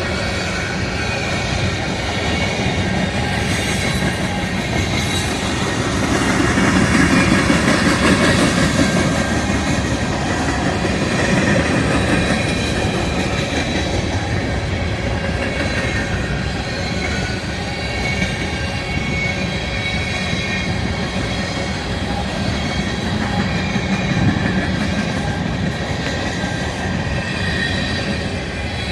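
Railroad cars rolling past steadily, wheels clattering over the rails, with thin high-pitched wheel squeals on top.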